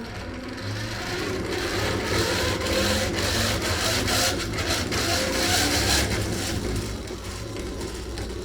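Antique hand-cranked grinder being turned: its gears whir and the stone spins up over the first couple of seconds, with a rough scraping noise on top.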